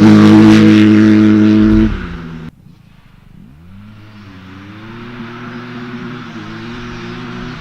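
Dirt bike engine held at high revs, loud and steady, dropping off about two seconds in. After an abrupt break, a fainter dirt bike engine revs up and then holds steady.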